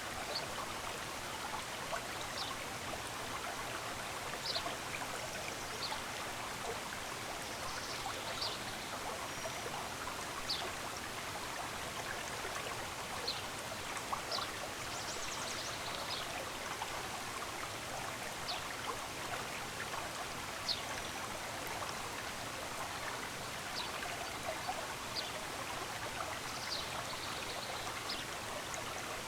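Steady running water of a stream, with short high bird chirps scattered over it, one every second or two.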